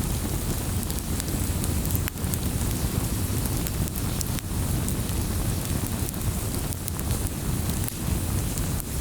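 Wood fire crackling in a fireplace: a steady low rumble of burning with scattered sharp crackles and pops throughout.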